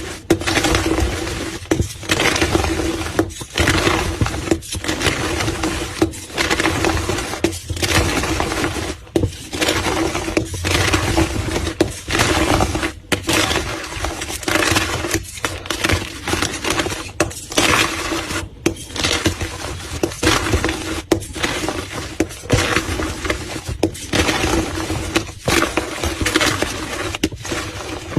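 Gym chalk being crushed and crumbled by hand, a run of dense crunches repeating every second or two.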